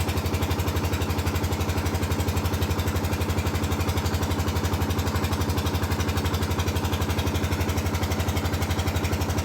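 Tractor engine idling steadily with an even, rapid chug.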